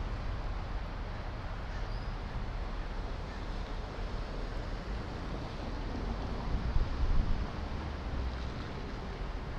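Low rumble of a garbage truck's Cat 3126 diesel engine running, with wind buffeting the microphone; the sound swells briefly about two-thirds of the way in.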